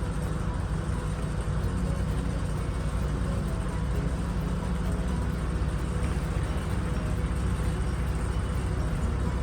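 An engine running at a steady speed, a constant low drone with no change in pitch.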